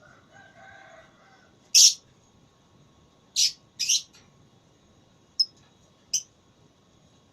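Lovebird giving short, loud, high-pitched calls: one about two seconds in, a quick pair a second and a half later, then two shorter, quieter ones.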